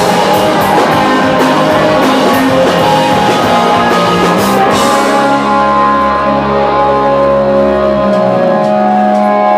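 Live rock band playing loud with electric guitars, bass and drum kit. About halfway the drums and cymbals drop out and the guitars and bass hold one sustained chord that runs to the end.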